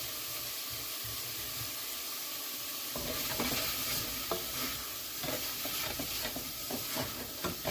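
Onions, mushrooms and garlic sizzling in butter in a pot. From about three seconds in, a utensil scrapes and clicks irregularly against the pot as they are stirred.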